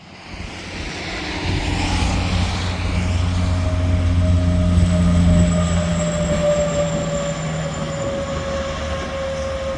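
A semi-truck passing on the interstate: its diesel engine drones and its tyres hum, swelling to a peak about five seconds in and then easing off, with a steady whine that slowly drops in pitch as it goes by.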